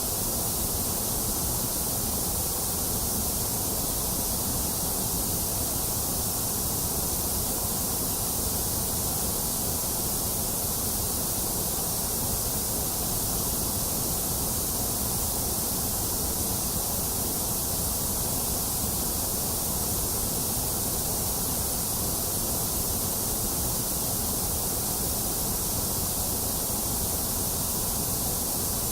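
Steady, unbroken white-noise hiss, constant in level throughout, with a bright, hissy top end.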